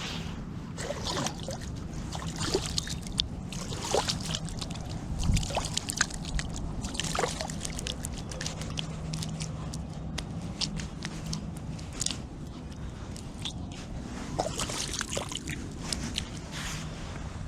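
Lake water sloshing, with small irregular splashes and drips, over a faint steady low hum.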